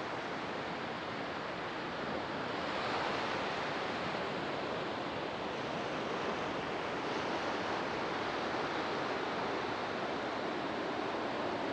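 Ocean surf on a sandy beach: a steady wash of breaking waves, swelling louder as a wave breaks about three seconds in.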